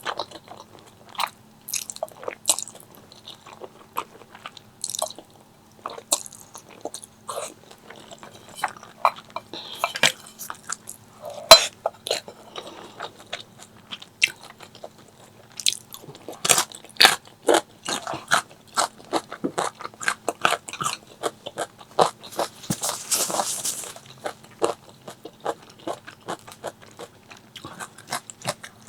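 Close-miked ASMR eating: crunchy bites and chewing of crispy fried chicken, a quick irregular crackle of sharp crunches that grows denser in the second half. About three-quarters through there is a brief hissing, rushing noise.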